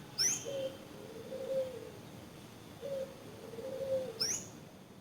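A dove cooing, a low repeated phrase of a short note and a longer wavering note, with another bird giving a short high sweeping call twice, near the start and near the end.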